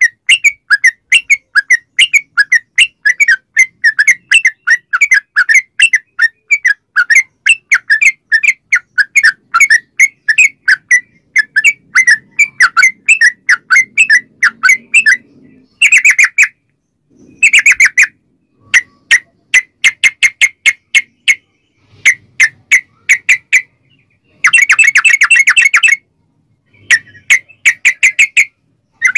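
Yellow-vented bulbul (trucukan) song in its long rapid 'ropel' form: a fast, unbroken run of loud chirping notes, about four or five a second, for some fifteen seconds. After that the song breaks into shorter runs with brief pauses between them.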